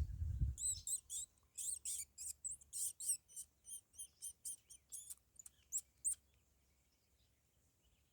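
Small birds chirping, a quick run of high, sharp chirps and short notes for about six seconds that then stops. A low rumble sounds in the first second.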